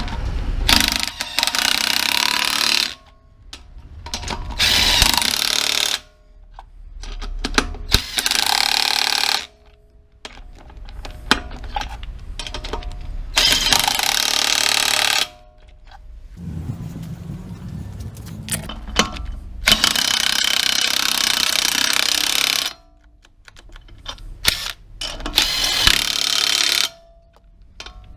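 Impact wrench running in repeated bursts of one to three seconds, six in all, tightening the wheel nuts as the wheels are mounted.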